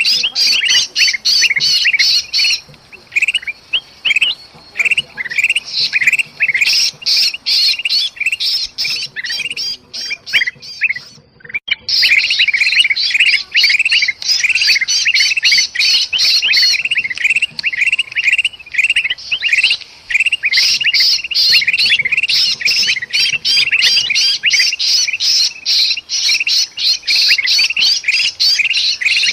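Agitated bulbul calls: golden bulbuls (kutilang emas) chattering and squawking in alarm, mixed with the distress calls of a trapped bulbul, as used on a bird-luring track. Rapid, high, densely packed notes, several a second, thin out briefly twice in the first half, with a short break near the middle.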